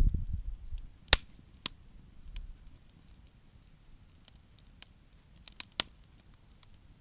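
Wood campfire crackling, with scattered sharp pops from the burning wood: a loud one about a second in and a quick run of three near the end. A low rumble fills the first second.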